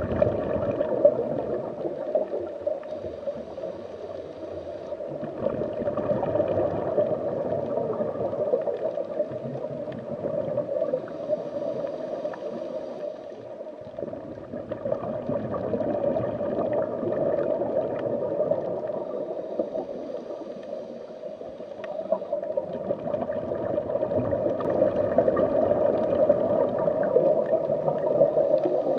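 Underwater ambience: a steady gurgling, bubbling wash of water that swells and ebbs every several seconds, with faint thin high tones coming and going.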